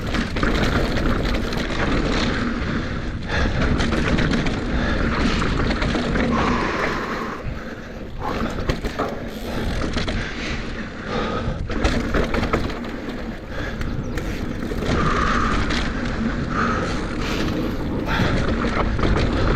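Mountain bike riding fast over a rough, rocky dirt trail: tyres crunching over dirt and rock, with the chain and frame rattling in many sharp clatters. Wind rumbles steadily on the body-mounted action camera's microphone.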